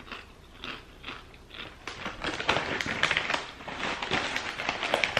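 Crunching on tortilla chips: a few separate crisp bites, then denser, louder chewing from about two seconds in.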